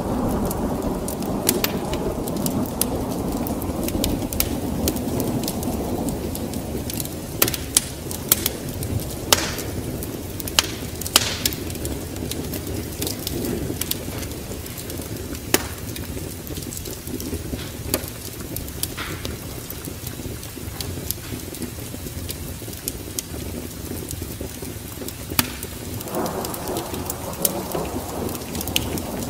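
Wood fire crackling with scattered sharp pops, over a steady rain ambience with rolling thunder. The low rumble is heavy at the start, eases off about six seconds in, and swells again near the end.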